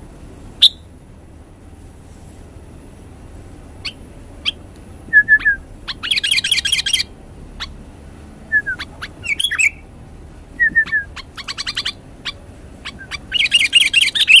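Small songbirds chirping: scattered sharp single chirps, with three bursts of rapid, repeated chirping trills about six, eleven and thirteen seconds in.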